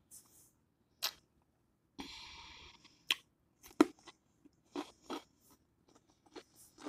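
Crisp crunching bites and chewing of a cucumber spear: several sharp snaps spread through, with a longer crunchy stretch about two seconds in.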